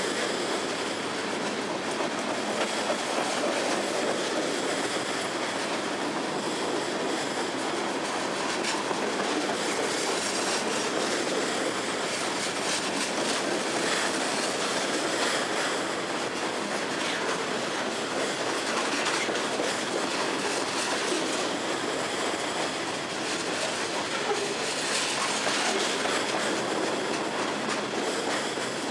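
Freight train of boxcars, tank cars and lumber flatcars rolling past close by: a steady rumble of steel wheels on the rails, with clacking over the rail joints and a thin high wheel squeal in places.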